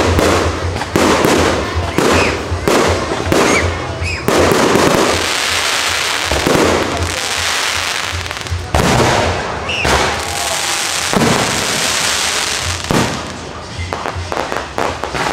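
Aerial fireworks shells bursting overhead. A quick series of sharp bangs comes first, then a long dense rush of crackling noise, then more single bangs and a fast flurry of small pops near the end.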